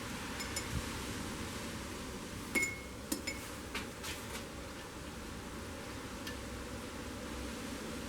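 A few light metallic clinks and taps of tools and small metal parts being handled, the sharpest with a brief ring about two and a half seconds in, over a steady low background hum.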